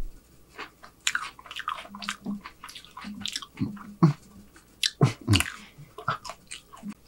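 Close-miked wet chewing and lip smacking of a mouthful of food, irregular clicks and squelches, with a few short closed-mouth 'mm' hums between about two and four and a half seconds in.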